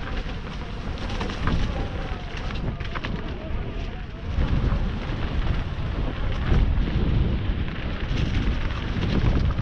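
Full-suspension Specialized Stumpjumper mountain bike ridden down a rough trail: a low rumble of tyres and wind buffeting the action-camera microphone, with frequent clicks and rattles as the bike goes over roots and rocks.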